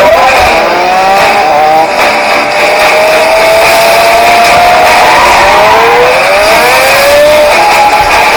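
High-performance sports car engine revving hard in a chase, its pitch climbing and dropping through gear changes, with a long held high note in the middle and another rising sweep near the end.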